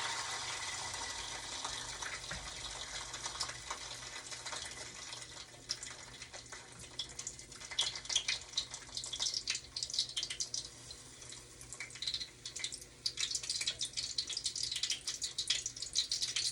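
Hot oil sizzling in a frying pan as eggs and chicken fry: a steady hiss that dies down over the first few seconds, then irregular crackling and spitting from about halfway through.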